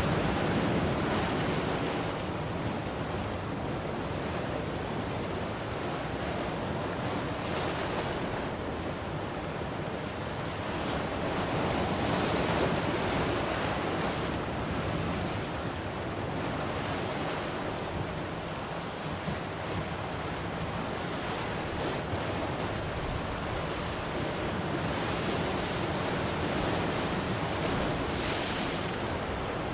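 Ocean waves washing onto a shore, a continuous surf wash that swells and eases every several seconds, with some wind on the microphone.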